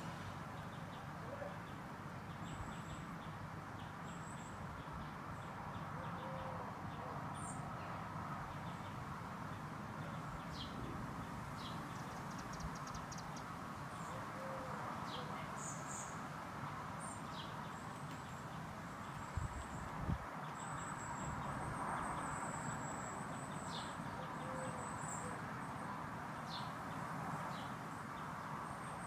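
Small garden birds giving short, high chirps and calls now and then over a steady background hum. Two brief low thumps come about two-thirds of the way through.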